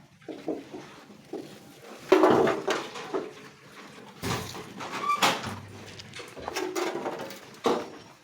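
Several short farm-animal calls one after another, the loudest starting about two seconds in.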